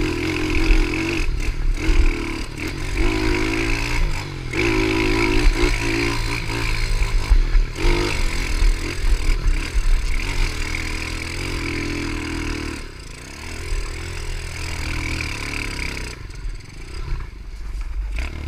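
Small pit bike engine revving up and down as the bike is ridden hard. The engine sound drops back and gets quieter about sixteen seconds in.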